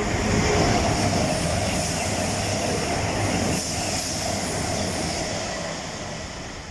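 Electric train running along the track with a steady rumble and a held whine, fading as it moves away.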